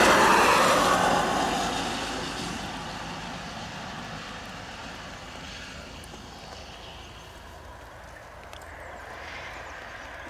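A road vehicle passing close by, its rushing noise fading away over the first three seconds, then a steady faint traffic hum.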